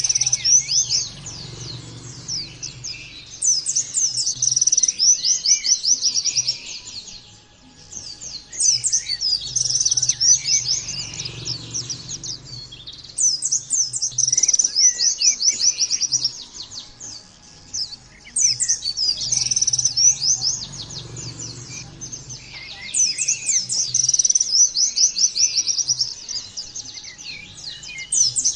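White-eye (pleci) singing: fast, high twittering phrases about three seconds long, each starting again roughly every five seconds.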